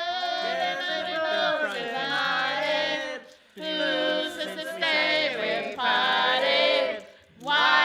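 Singing voices, several together, in long held phrases broken by two short pauses.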